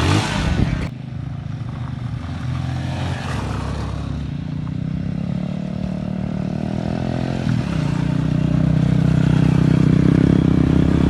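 Motorcycle engine running and revving under load, its pitch shifting about two-thirds of the way through and growing louder over the last few seconds.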